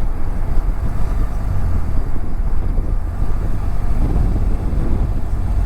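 BMW F700GS parallel-twin engine running as the motorcycle is ridden, a steady low rumble mixed with wind noise on the helmet-mounted microphone.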